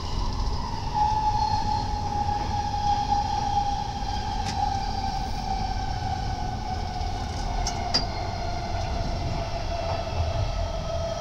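Intercity passenger coach running on rails, heard from inside by the door: a steady low rumble with a whine that slowly falls in pitch as the train slows, and a few short clicks about halfway through.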